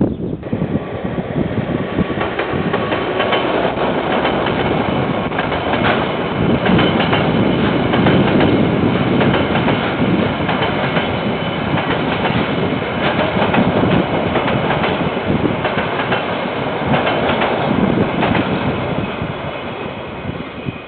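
KiwiRail train passing on the line, a steady rumble with the clatter of wheels over the rails, easing off near the end.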